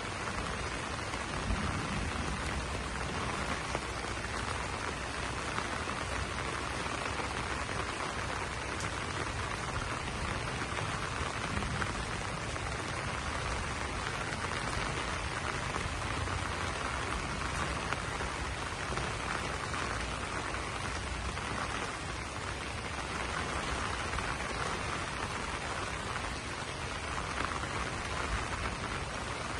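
Steady rain falling on banana leaves, an even, unbroken hiss of drops that does not let up.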